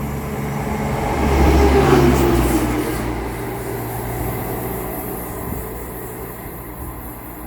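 A train passing through the station, growing loud to a peak about two seconds in and then fading, its pitch falling as it goes by.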